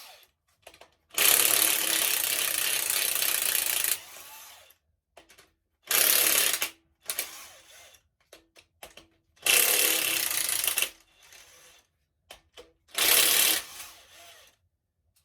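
Impact wrench spinning off cylinder head bolts on a Ford 302 V8, in four bursts: one long run of about three seconds, then three shorter ones, with small clicks between them.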